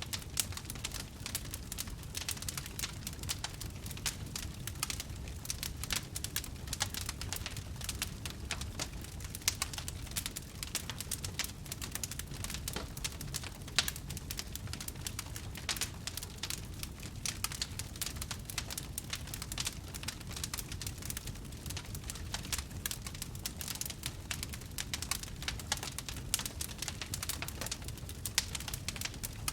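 Wood fire crackling steadily: a dense run of small pops and snaps over a constant low rumble, with a few sharper pops standing out.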